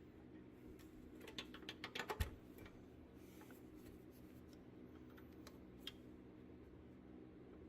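Faint room hum with a quick run of light clicks and taps about a second in, ending in a sharper knock, and a single click near six seconds.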